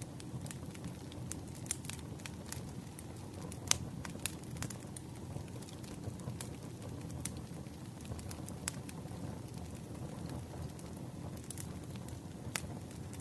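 Campfire burning, with a steady low rumble and irregular sharp crackles and pops of the burning wood.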